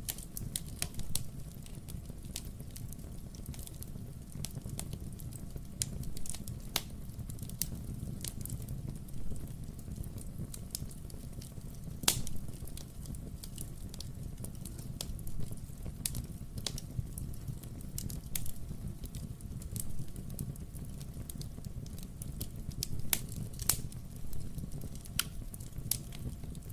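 Wood fire burning in a fireplace: logs crackling with scattered sharp pops over a steady low rumble, one louder pop about halfway through.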